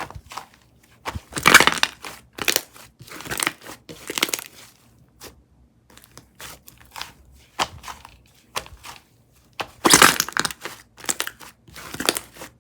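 Slime being pressed, squeezed and stretched by hand, making irregular crackling, crunching bursts with short quiet gaps; the loudest bursts come about one and a half and ten seconds in.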